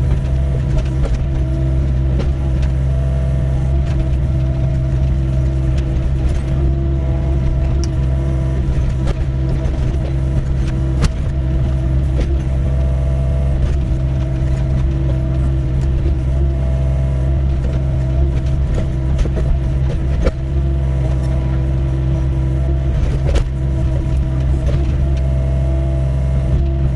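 Diesel engine of a Doosan 55W wheeled excavator running steadily under working load while digging, with a few scattered knocks.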